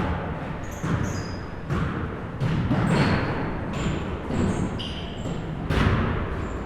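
Basketball being played in an echoing indoor gym. A ball bounces on the floor with several separate thuds, among many short high-pitched squeaks typical of sneakers on the court.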